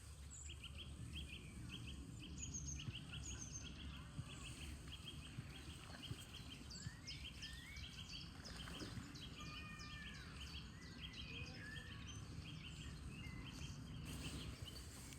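Several small birds calling outdoors: one repeats a short chirp about three times a second while others add varied calls and whistled glides, busiest in the middle. A low steady rumble lies underneath.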